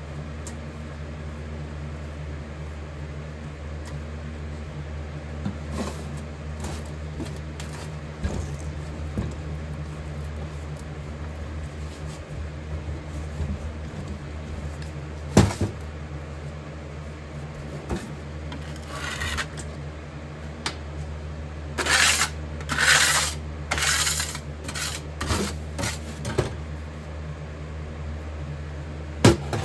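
Metal-casting work at a copper pouring station: scattered clanks and knocks of metal tools and moulds over a steady low hum. There is one sharp knock about halfway through, then a run of short hissing bursts in the last third.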